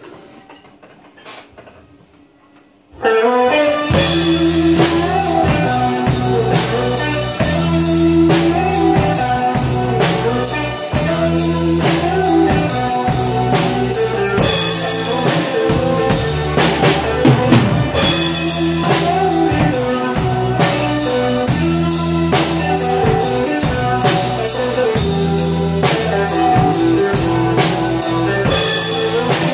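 A drum kit played live along with a backing track of guitar and bass, coming in loud about three seconds in after a few faint clicks.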